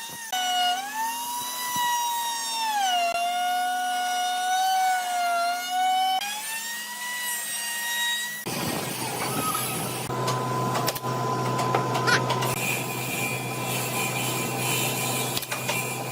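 High-pitched whine of a power woodworking tool's motor that dips and recovers in pitch in slow glides, as under a changing cutting load. About eight seconds in it cuts abruptly to a different machine running with a steady noisy rush and a low hum.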